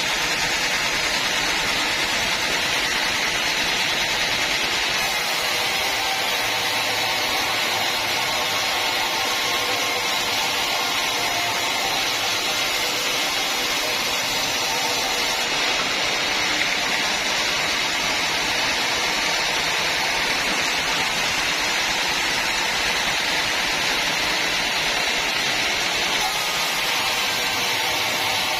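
Band sawmill running steadily as its blade cuts through a mahogany log, a continuous high-pitched whine and hiss.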